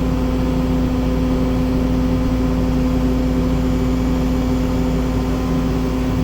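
Case 210 excavator's diesel engine running at a steady speed with an even hum.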